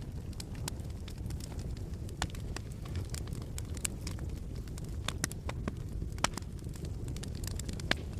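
Wood fire crackling in a fireplace: irregular sharp pops and snaps over a low steady rumble, with a couple of louder pops in the second half.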